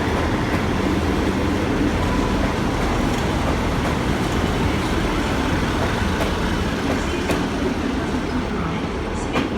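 South Western Railway Class 159 and Class 158 diesel multiple units pulling out of the station, their diesel engines running steadily under power as the train passes.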